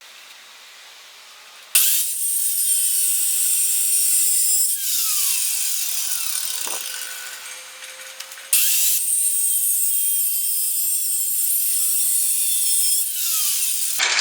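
Abrasive cut-off disc on an angle grinder mounted in a cut-off stand, cutting through steel angle iron: a loud, high grinding screech that starts abruptly a couple of seconds in, with the motor's pitch falling under load. It fades toward eight seconds, then a second cut starts abruptly and runs on.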